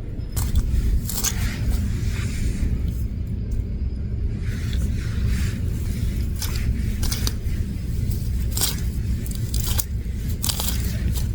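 Wild greens being gathered by hand: irregular bursts of plant stems and leaves rustling, snapping and scraping. A steady low rumble runs underneath.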